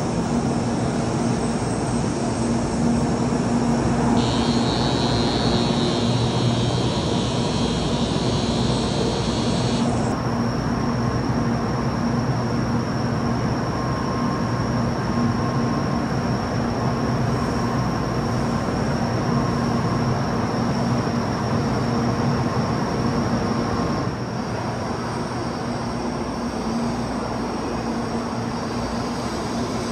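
Shinkansen train noise: a steady rumble with a low hum, in stretches that change abruptly about ten seconds in and again past twenty seconds.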